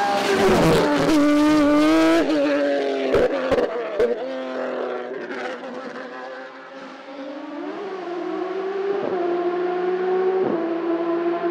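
Race car engine at full throttle passing close, rising in pitch, then changing up with a few sharp cracks about three to four seconds in as it pulls away and fades. From about eight seconds another engine note builds, shifting up twice.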